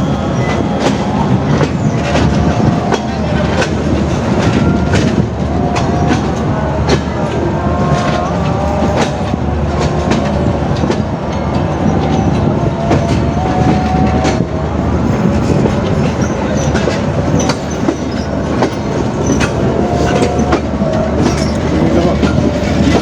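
Passenger train running, with a steady rumble and irregular clicks of the wheels over rail joints and points, and thin squealing tones now and then.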